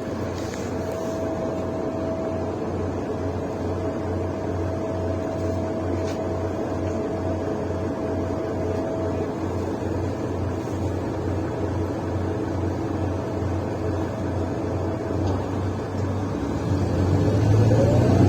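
Mercedes-Benz Citaro bus diesel engine idling, heard from inside the bus, with a low pulsing drone from its defective exhaust and a steady whine. Near the end the engine note rises and gets louder as the bus pulls away.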